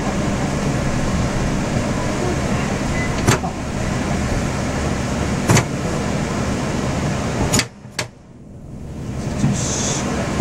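Yurikamome rubber-tyred transit train running on its guideway, a steady rumble heard from the cab. Sharp knocks come about three and five seconds in and twice around eight seconds, where the running noise drops away suddenly and then builds back up.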